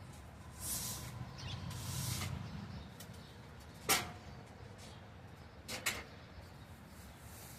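Cleaning and handling noises: two brief brushing swishes, then a sharp knock about four seconds in and a quick double knock near six seconds.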